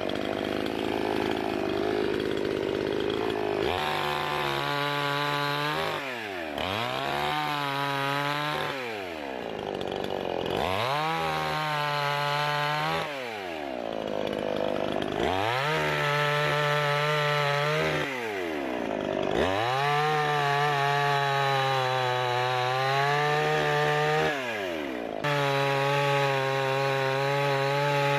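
Two-stroke gas chainsaw with an 18-inch bar idling, then from about four seconds in running at full throttle cutting firewood, the engine note falling away and climbing back up about five times.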